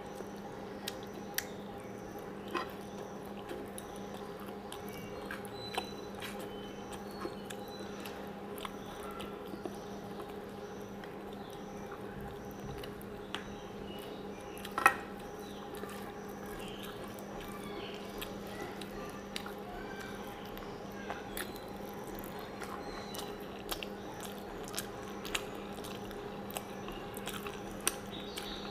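Close-up chewing and wet mouth sounds of a person eating rice and mutton curry by hand, with scattered short clicks and one sharper click about fifteen seconds in, over a steady low hum.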